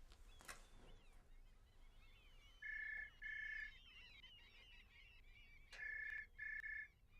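Landline telephone ringing with the British double-ring pattern: two pairs of short rings, a few seconds apart. Small birds chirp faintly in the background.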